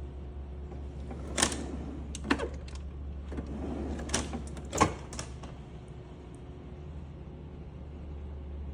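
Knocks and clicks of a KitchenAid refrigerator-freezer being handled, four sharp ones between about one and a half and five seconds in, with lighter rattles between, over a steady low hum.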